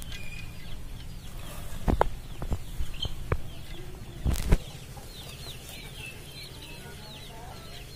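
Birds chirping in quick runs of short falling notes, most busily in the second half. Over them come a few soft knocks and, about halfway through, a louder knock and rustle as handfuls of cooked rice are scooped from a plastic-lined basket and dropped into an aluminium pot.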